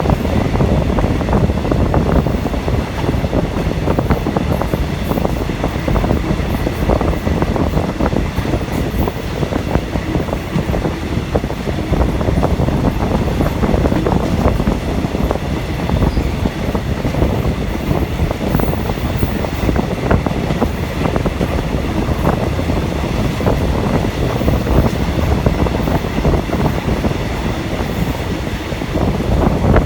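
Passenger train running along the track, a steady rumble with constant wheel clatter and rattling, heard from aboard the carriage.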